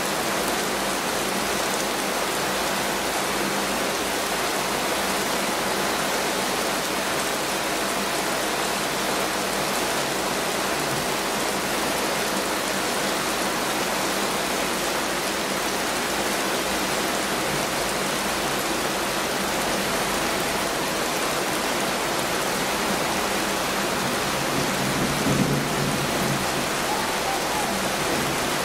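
Heavy rain falling steadily, a dense even hiss of many drops. Near the end a short low rumble swells briefly above it.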